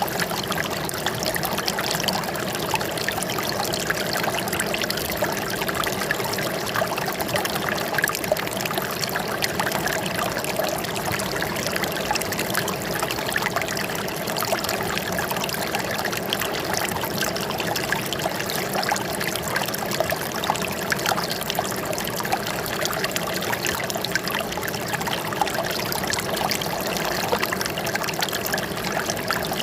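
Running water trickling steadily, an even flow without pauses.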